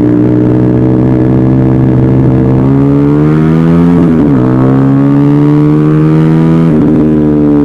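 Motorcycle engine pulling under acceleration, its pitch rising steadily and then dropping sharply about four seconds in and again about seven seconds in, as it shifts up through the gears.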